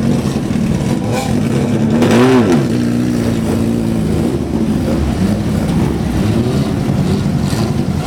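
Engines of classic and small-engined racing cars running, several at once, with one car passing close about two seconds in, its engine note rising and then falling.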